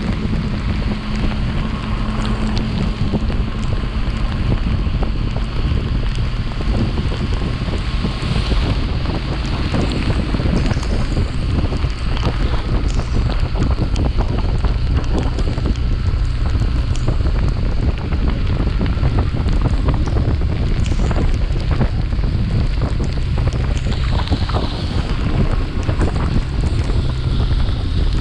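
Wind rushing over the microphone of a chest-mounted action camera on a moving motorcycle, with the Yamaha FZS V3's single-cylinder engine running steadily underneath.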